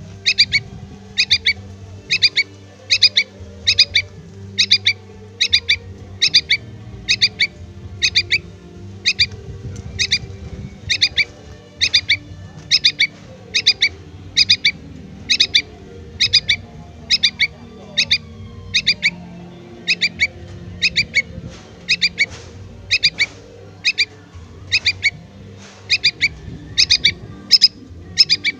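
Yellow-vented bulbul chick giving its begging call to the parent bird: short, sharp double chirps repeated about once a second.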